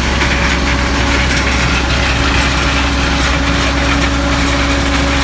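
Tractor's diesel engine running steadily at constant speed, a continuous drone.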